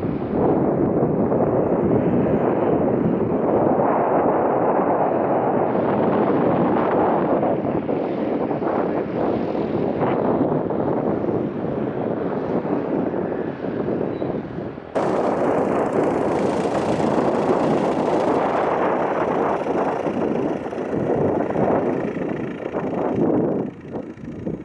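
Aircraft engine noise, a loud steady rush, with wind buffeting the microphone; the sound changes abruptly about fifteen seconds in.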